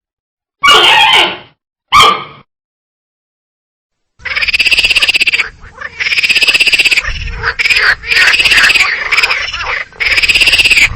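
A frog croaking: from about four seconds in, four long rattling calls of rapid pulses follow one another with short gaps. Two short sounds come before them, around one and two seconds in.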